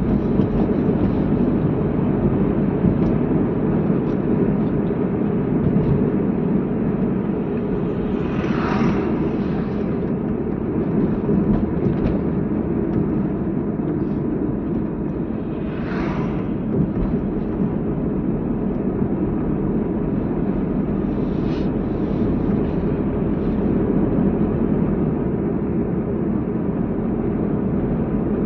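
Car driving along a road: a steady low rumble of engine and tyre noise, with three brief swishes about 9, 16 and 21 seconds in.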